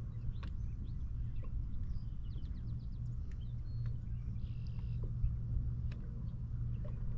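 Birds calling, with short high chirps and a quick run of about six notes near the middle, over a steady low hum.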